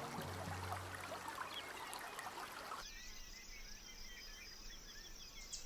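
Quiet forest ambience with scattered faint bird chirps. Nearly three seconds in, the ambience changes and a steady high insect trill carries on beneath the chirps.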